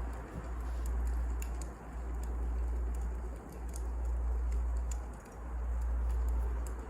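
Wood fire crackling, with scattered sharp pops over a low rumble that swells and dips about every one and a half to two seconds.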